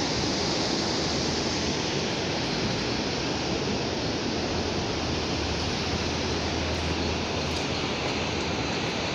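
Steady rushing of sea surf breaking on the shore, mixed with wind.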